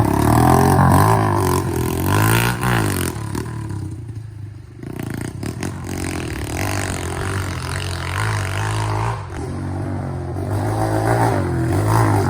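SSR110 pit bike's 110cc single-cylinder four-stroke engine revving hard, its pitch climbing and falling again and again. It eases off about four seconds in, then pulls steadily and climbs once more near the end.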